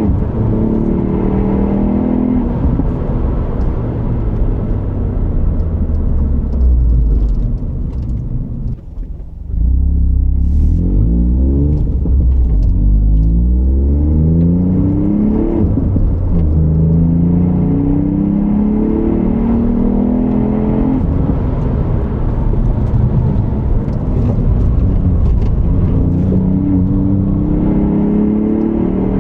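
2020 Ford Fiesta ST's turbocharged 1.5-litre three-cylinder EcoBoost engine being driven hard, with a stock exhaust. Its pitch repeatedly climbs under acceleration and drops back at the shifts and corners. About nine seconds in, the sound falls away briefly as the throttle lifts, then comes back strongly.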